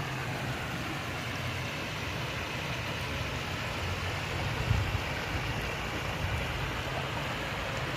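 Steady rushing of a flowing stream, with a low rumble underneath and one brief louder bump a little under five seconds in.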